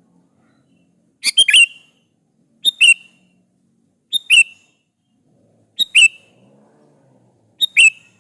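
Sooty-headed bulbul (kutilang) calling: five short, bright phrases of two or three quick notes each, repeated about every one and a half seconds.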